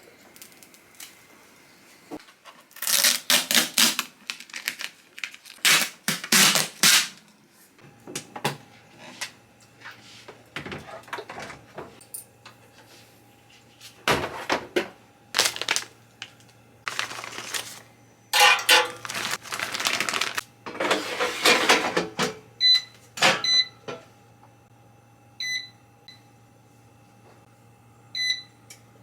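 Household handling sounds: repeated bursts of rustling and clatter as objects are moved and put away. A steady low hum starts about a quarter of the way in and runs on, and a few short electronic beeps come near the end.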